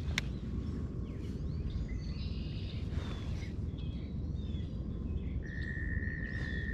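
Small birds chirping and calling around the pond over a steady low rumble. There is a sharp click just after the start, and a steady high-pitched tone begins about three-quarters of the way through and holds.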